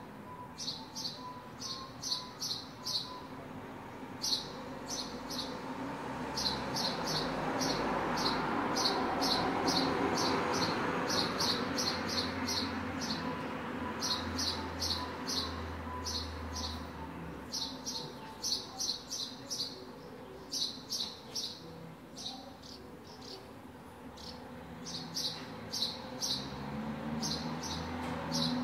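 Small birds, likely house sparrows, chirping in quick runs of short high notes, several a second, all through. Underneath, street noise swells and fades around the middle, as a vehicle passes.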